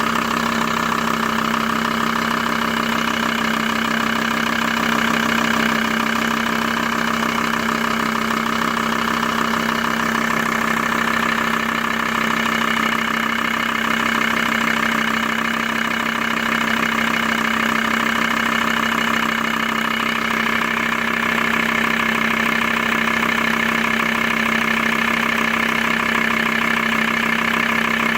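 Volkswagen T4 Transporter's ACV 2.5 TDI five-cylinder diesel engine idling steadily, with a fine, rapid, even clatter.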